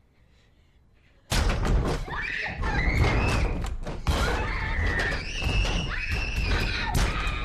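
Sudden loud commotion about a second in: repeated thuds and bangs with high-pitched screaming.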